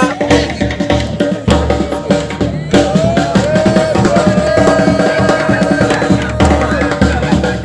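Music with drums and percussion playing a busy, steady beat, with a held melodic line over it in the middle.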